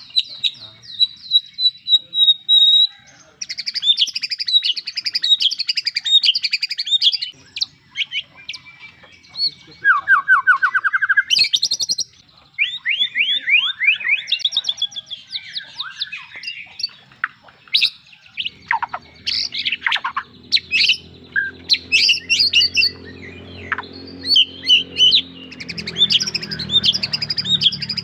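White-rumped shama singing a varied song, one phrase after another: a held high whistle near the start, then fast rattling trills, a quick run of lower rising notes and sharp sweeping calls.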